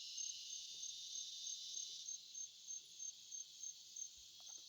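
Evening insect chorus: a steady high-pitched buzz with a thin chirp pulsing about three times a second.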